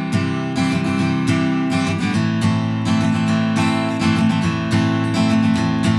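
Taylor Builder's Edition 324ce acoustic guitar strummed in a steady rhythm, with chords ringing between the strokes.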